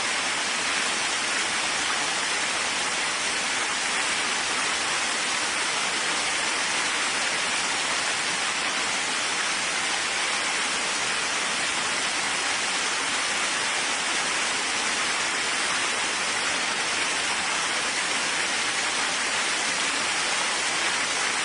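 Steady, even rain with no thunder or separate drops standing out.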